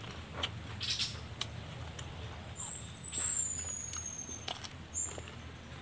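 Close-up sounds of a person biting and chewing raw vegetables, a few sharp crunchy clicks. A high, thin bird whistle comes in about two and a half seconds in, gliding slightly down and lasting over a second, followed by two short chirps near the end.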